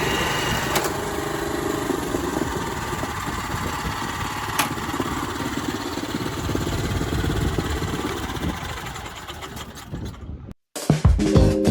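The 6.2 hp gasoline engine of a Kubota TA700 walk-behind cultivator running steadily, with a couple of sharp clicks, then fading away about eight to ten seconds in. Guitar music starts right at the end.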